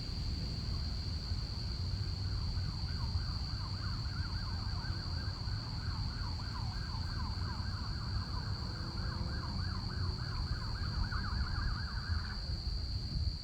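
A distant emergency-vehicle siren in a fast yelp, sweeping up and down about three times a second, fading in and then cutting off suddenly near the end. Underneath, crickets keep up a steady high trill over a low steady rumble.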